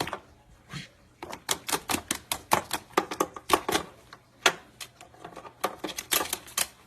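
A parrot's beak nibbling and biting at an electrical cord: a rapid, irregular run of sharp clicks and crunches, several a second, starting about a second in.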